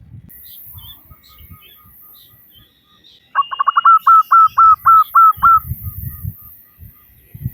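Female zebra dove (perkutut) calling: a quick run of about a dozen short, clipped notes lasting about two seconds, the first few packed close together and the rest evenly spaced. It comes about halfway through.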